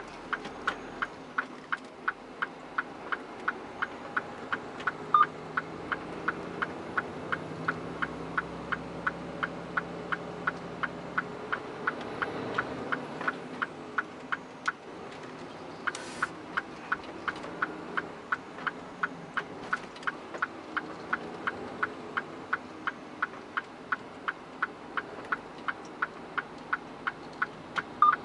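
Turn-signal or hazard indicator ticking steadily in a truck cab, about two to three ticks a second, with a short pause about halfway, over the low hum of the engine.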